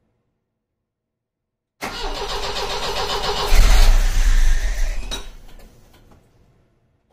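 A freshly rebuilt, turbo-converted Volvo 360 GLT engine being started for the first time: the starter cranks with an even pulsing for about two seconds, then the engine catches and runs loudly for a second or so before dying away.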